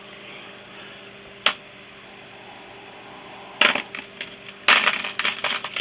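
Hand tools and small hardware clinking and clattering as they are handled and packed into a toolbox: one sharp click about a second and a half in, then two bursts of rattling clatter near the end.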